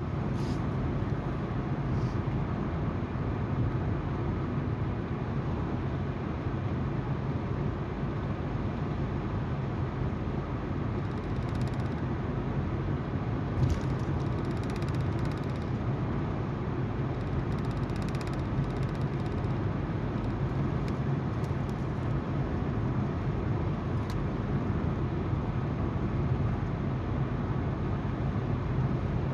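Car driving at steady speed: tyres on the road and the hum of the engine, an even low noise, with a few faint ticks midway.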